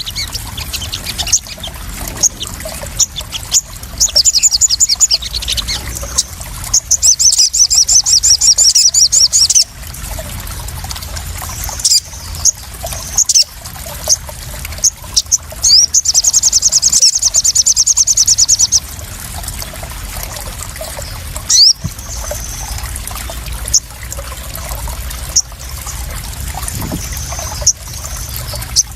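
Water trickling and splashing steadily under high calls of small birds: sharp single chirps, and three longer rapid trills, the longest about three seconds.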